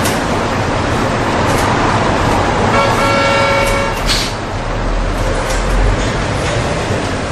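Steady rush of road traffic with a short car-horn toot about three seconds in and a few sharp clicks.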